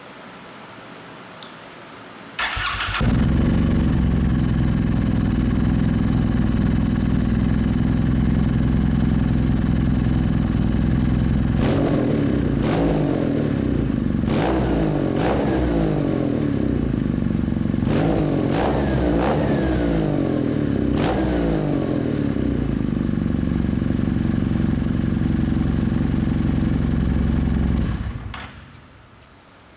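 Kawasaki W800 air-cooled parallel-twin engine breathing through a Nitroheads 2-into-1 header and SuperTrapp muffler: it is cranked and catches a couple of seconds in, idles steadily, is blipped several times with quick rises and falls in revs, settles back to idle and is switched off near the end.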